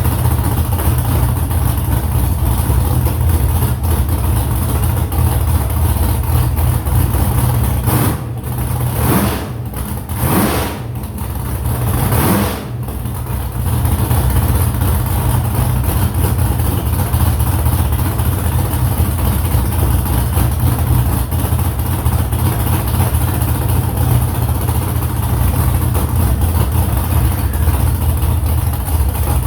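Freshly built car engine running steadily. About eight seconds in, the revs dip and change for a few seconds, then settle back to a steady run.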